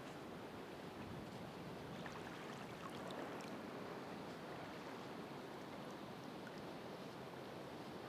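Ocean waves washing onto the shore: a steady, even wash of surf with faint scattered ticks.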